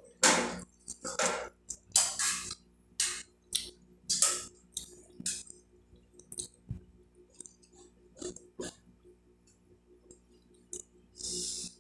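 Close-miked wet chewing and lip-smacking while eating stewed chicken by hand, with sucking of the fingers. Loud smacks come about once a second for the first five seconds, then softer, sparser ones.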